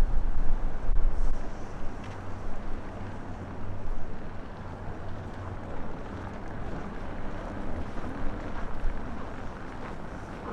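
Gusting windstorm wind buffeting an inadequately shielded microphone: a low rumble that rises and falls, heaviest in the first two seconds, then easing.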